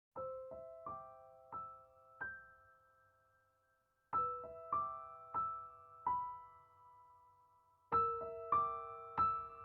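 Background music: a gentle piano melody played as three short phrases of single ringing notes, each phrase fading before the next begins.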